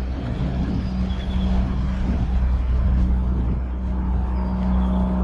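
An engine running steadily at a constant pitch, a low even hum.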